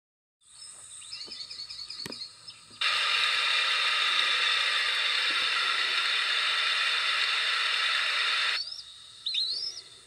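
High bird chirps from a TV speaker: a quick run of faint repeated notes in the first two seconds, then a few separate rising chirps near the end. In between, a loud steady hiss starts suddenly and cuts off after about six seconds, covering the calls.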